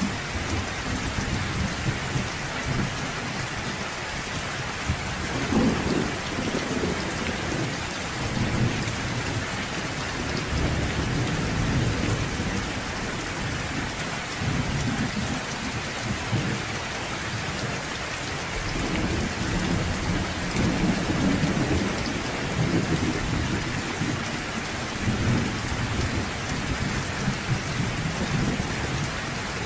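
Steady rain falling, with low rolling thunder rumbling underneath that swells about five seconds in and again through the second half.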